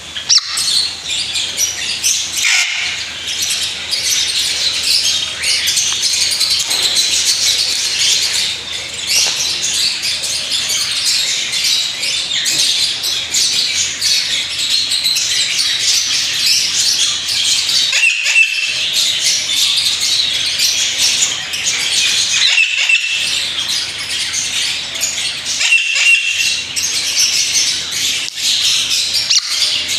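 Birds chirping and chattering densely and continuously, with three short, clear whistles in the second half.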